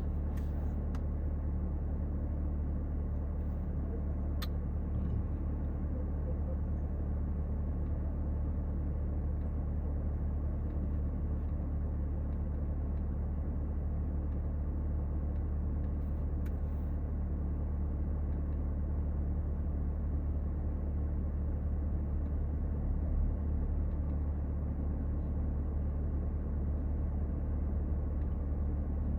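A car running steadily, giving a low, even rumble that stays at one pitch.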